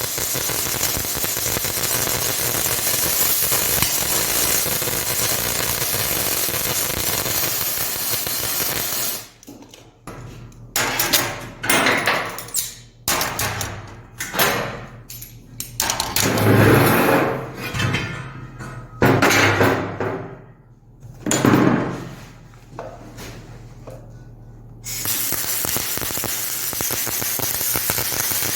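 Aluminum MIG welding with a spool gun: a steady arc hiss that stops about nine seconds in, then a run of irregular metal clanks and knocks, and the arc hiss starts again near the end.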